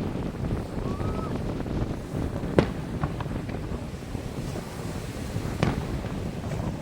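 Wind buffeting the microphone over a steady low rumble, with two sharp firework bangs about three seconds apart, the first the louder.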